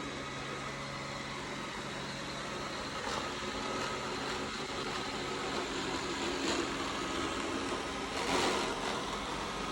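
iRobot Roomba S9 robot vacuum running, with a steady motor hum and a grinding noise, louder briefly about eight seconds in. The owner wonders whether the grinding comes from the wheels.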